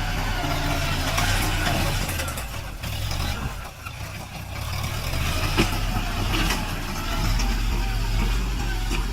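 Diesel tractor engine running, its pitch shifting up and down over the first few seconds and then steadier, with one sharp knock about five and a half seconds in.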